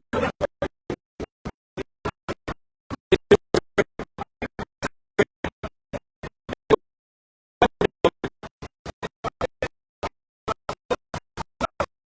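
Broken-up, dropping-out audio: a rapid string of very short snatches of sound, about four a second, each cut off into dead silence, with a pause of nearly a second a little past the middle.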